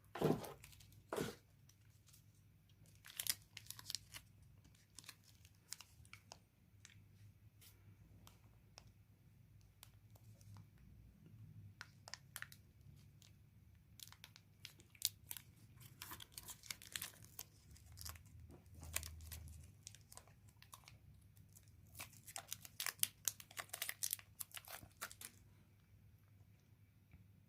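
Chocolate in its wrapper being crushed: crinkling, tearing and crunching, in scattered clusters of sharp crackles that stop near the end.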